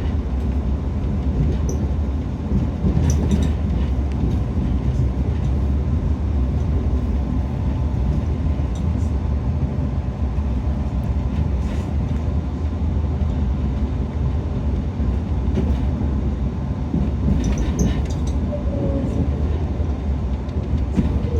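Passenger train running on the rails, heard as a steady low rumble with a few faint clicks and knocks now and then.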